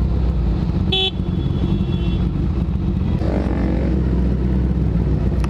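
Honda CBR1000RR's inline-four idling in stopped traffic, with a short vehicle horn toot about a second in and another engine revving briefly around the middle.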